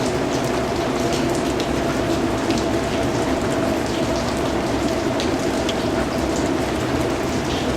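Steady rain falling: a dense, even hiss with many individual drops ticking and splashing on a surface.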